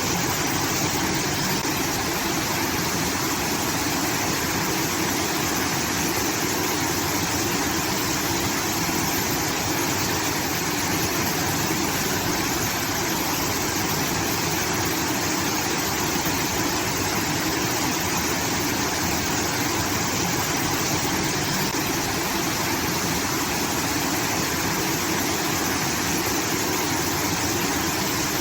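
Water rushing steadily out of a rice field irrigation channel, a constant waterfall-like pour that does not change.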